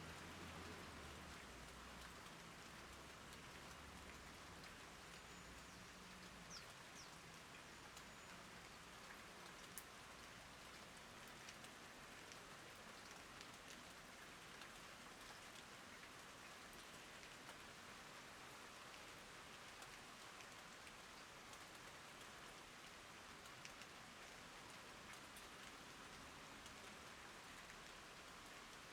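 Faint, steady rain falling on garden plants, with a few sharper single drop ticks.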